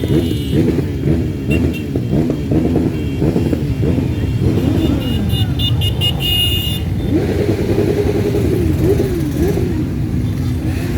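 A stream of motorcycles riding past one after another, many engines overlapping, their pitch rising and falling as riders rev and pass.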